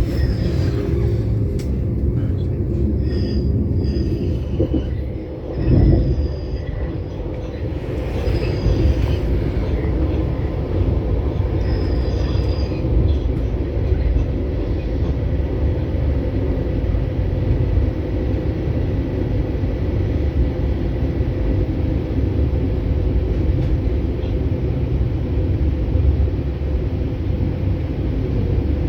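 Passenger train running with a steady low rumble, with brief high squeals during the first dozen seconds and a single heavy thump about six seconds in.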